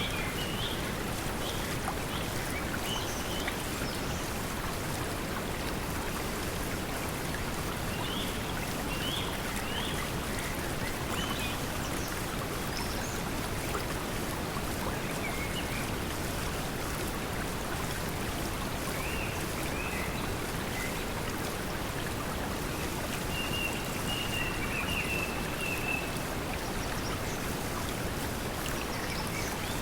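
Steady pink noise blended with flowing water, with short bird chirps scattered through it and a longer trill about three-quarters of the way in.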